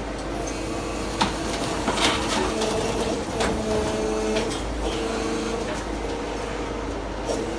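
Brokk remote-controlled demolition machine running, its hydraulics giving a steady mechanical hum with a tone that wavers in pitch, broken by scattered knocks and clatters.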